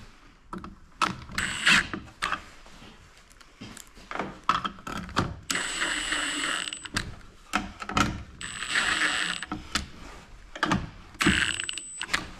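Tool work on garage door opener hardware: scattered clicks and knocks of metal parts being handled. Three times a run of about a second of dense mechanical rattling comes in, each with a thin high whine.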